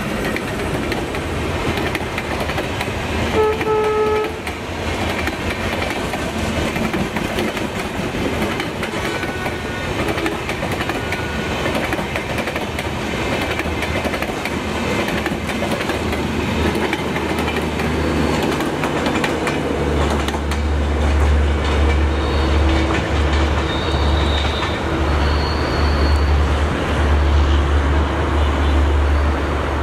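Express train's passenger coaches passing close by at speed: a continuous rumble of wheels on rail with clickety-clack over the rail joints. A brief horn note sounds about four seconds in.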